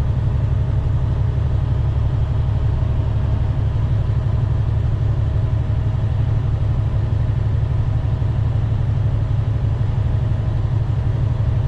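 Semi truck's diesel engine and road noise heard inside the cab while driving, a steady low rumble with a faint steady hum above it.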